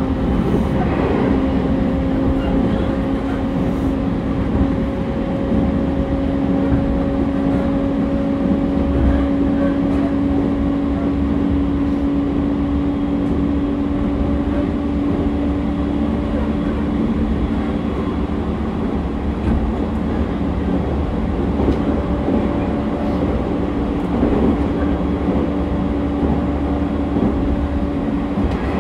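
Running sound inside a JR East E231 series 1000 subseries (refurbished) commuter EMU travelling at steady speed: a continuous rumble of wheels and running gear with a steady hum held at one pitch.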